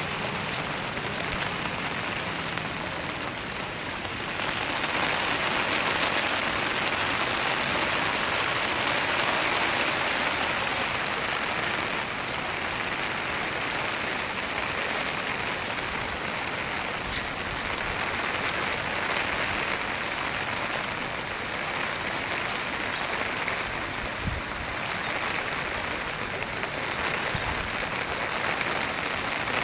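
Heavy rain pouring down with floodwater rushing along the street, a dense steady hiss that grows louder about four seconds in.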